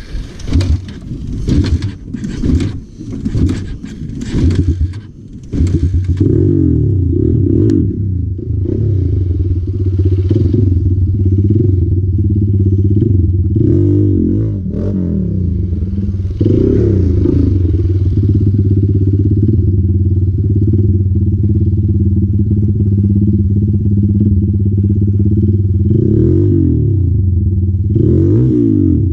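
Clattering knocks for the first few seconds, then a Hero Impulse's single-cylinder motorcycle engine running steadily, with a few brief revs.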